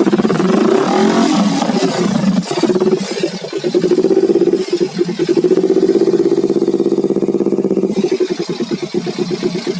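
Kawasaki Ninja 250 FI's parallel-twin engine revving through an RCB competition racing exhaust. Its pitch swings up and down in the first couple of seconds, holds steady at higher revs through the middle, then falls back to an uneven, pulsing idle near the end.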